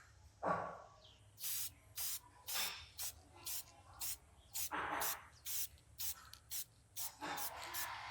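Aerosol spray can of primer or paint let off in short hissing bursts, about two a second, with a few longer sprays among them.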